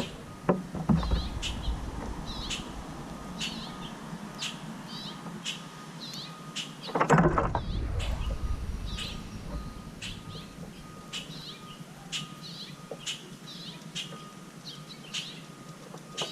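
Small birds chirping over and over in short, quick calls. About seven seconds in there is a brief, louder rush of noise.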